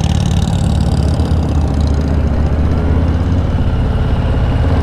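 2019 Harley-Davidson Softail Slim's V-twin engine running steadily at low speed.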